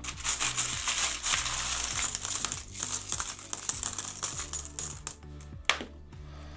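A pile of loose coins being stirred and sifted by hand in a tub, a dense run of metallic clinks for about five seconds, then one single clink near the end.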